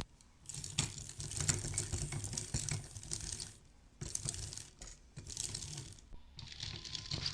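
A hand-cranked toy generator's gearing clattering and clicking in three spells of turning, with short pauses between.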